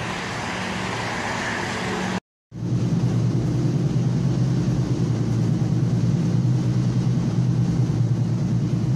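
Passenger train running, heard from inside the car: a steady low rumble and hum. It follows a short cut about two seconds in; before the cut there is a quieter steady background noise with a low hum.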